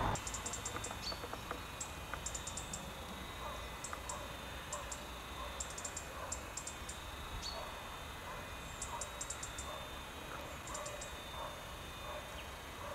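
Small birds chirping outdoors: quick clusters of high chirps every second or so, with a few short falling notes, over a faint steady background.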